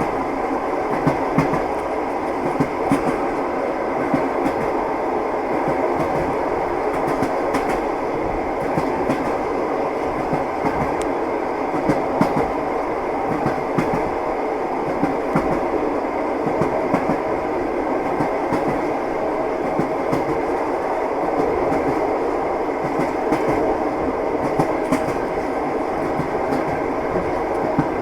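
Train wheels clattering over the rails: a steady running rumble with irregular clicks and knocks every second or so.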